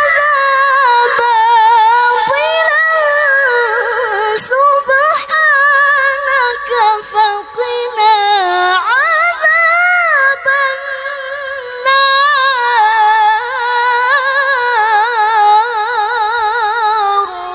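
A woman reciting the Quran in melodic tilawah (qiroah) style, holding long high notes with fast, wavering ornaments and a few brief breaths. The phrase ends near the end.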